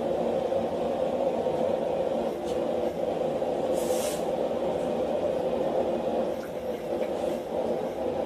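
Blacksmith's forge fire running with a steady rushing noise. A brief high hiss comes about four seconds in.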